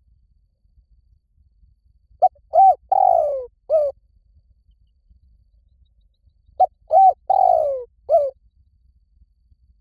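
Spotted dove cooing, two phrases about four seconds apart. Each phrase is a short note, an arched coo, a longer falling coo and a short closing note.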